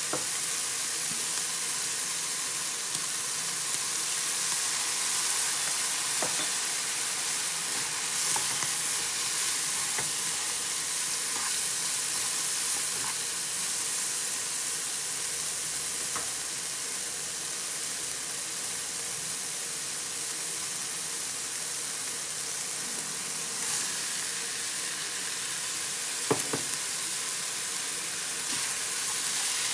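Diced pig heart and onions sizzling steadily in a non-stick frying pan, with a spatula stirring and now and then ticking against the pan. There is one louder knock near the end.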